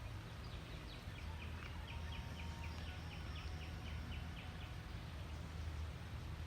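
A bird calling a rapid, even series of short notes, about five a second, for roughly three seconds starting about two seconds in, over a steady low rumble.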